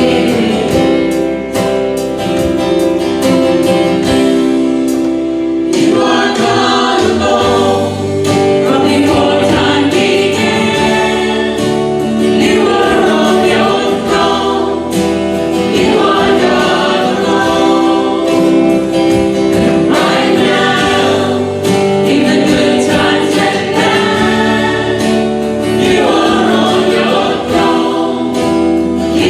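Church music: a choir or congregation singing a hymn with instrumental accompaniment. Held instrumental chords open it, and the voices come in about six seconds in.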